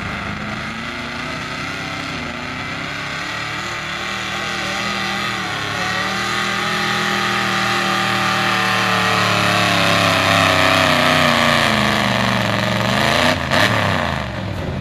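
Modified gas street pickup's big-block engine at high revs under load as it pulls the sled. It grows louder, then near the end the revs fall away sharply.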